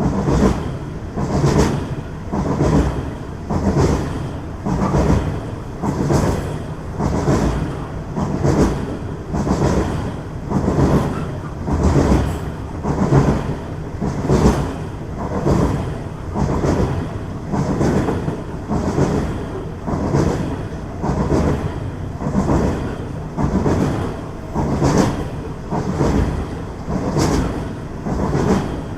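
Train wheels clattering over the rails in a steady, even rhythm of about one beat a second.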